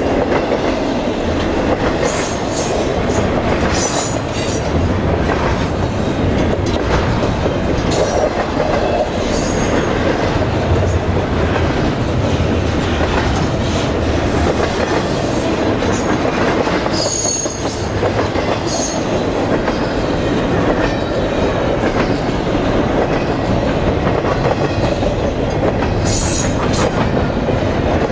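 Double-stack intermodal freight train's container well cars rolling past, a steady loud rumble of steel wheels on rail. Brief high-pitched wheel squeals cut through every few seconds.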